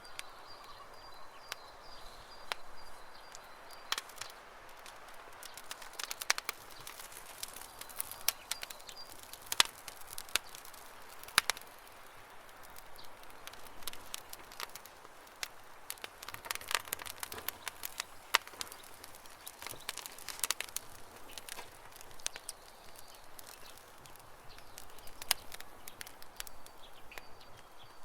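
Wood campfire crackling, with irregular sharp pops and snaps throughout. A small bird chirps in quick, high, faint runs twice in the first part.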